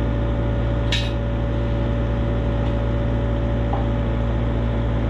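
A heavy machine's diesel engine running steadily while it hoists a load, with a short metallic clink about a second in.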